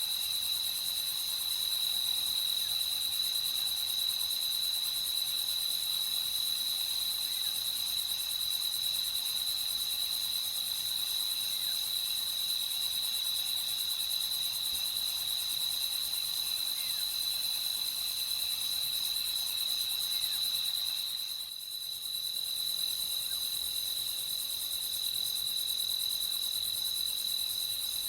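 Crickets chirping in a steady night chorus: a continuous high-pitched trill, with a brief dip in level about 21 seconds in.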